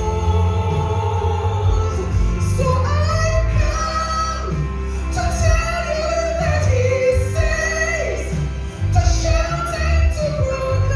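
A woman singing a gospel song in long, sliding held notes over instrumental accompaniment with a strong bass.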